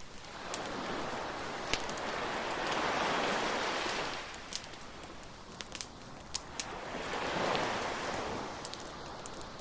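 Surf washing ashore in two slow swells, with a bonfire crackling and popping in sharp, irregular snaps over it.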